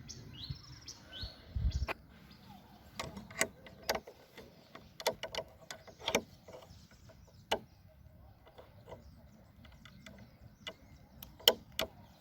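Birds chirping in short calls near the start, with a dull thump. Then irregular crackles and snaps, the sound of footsteps pushing through long dry grass.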